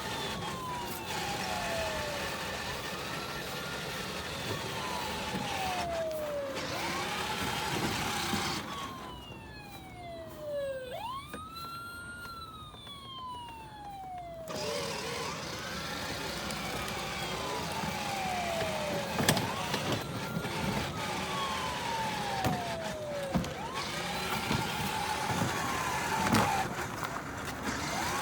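Electronic siren of a ride-on toy fire truck sounding over and over, each cycle a quick rise in pitch followed by a slower fall. Under it runs the steady noise of the ride-on's motor and wheels, which drops away for a few seconds midway.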